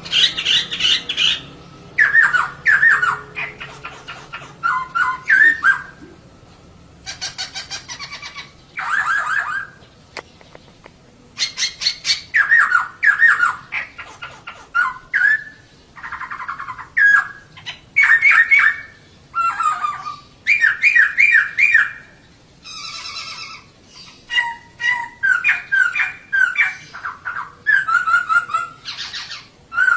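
Female poksay (laughingthrush) calling in a long series of bursts, each a second or two of rapid chattering notes, with short pauses between bursts. It is the female call that birdkeepers use to set male poksay singing.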